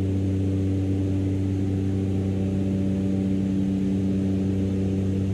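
Aircraft engines heard from inside the cabin: a steady, low drone with a hum of even overtones and no change in pitch.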